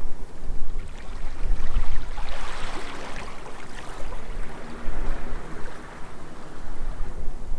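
Wind buffeting the microphone with a heavy, uneven rumble, over harbour water splashing and lapping that swells about two to four seconds in, and a faint steady low hum.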